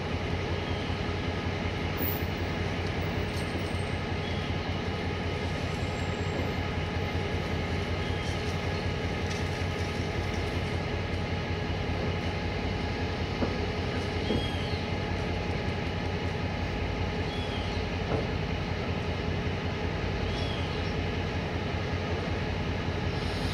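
Electric commuter train approaching a station: a steady hum with several held tones.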